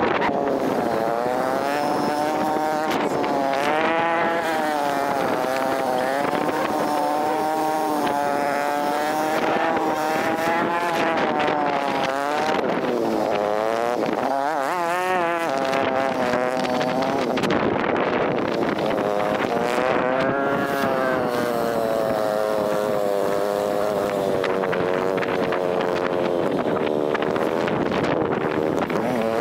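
Motorcycle engine running under way, its pitch rising and falling with throttle and speed changes, with a brief warble about halfway through.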